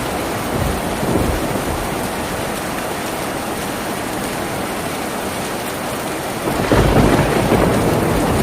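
Steady heavy rain falling on a tin roof. A louder, deeper rumbling swell comes in near the end.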